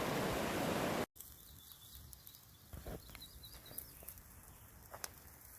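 Rushing river water, cut off abruptly about a second in. After it comes quiet outdoor ambience with faint scattered clicks and a few faint high chirps.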